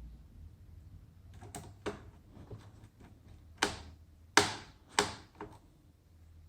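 Several irregular sharp clicks and taps of hard objects, faint at first, then three loud ones in the second half, each under a second apart.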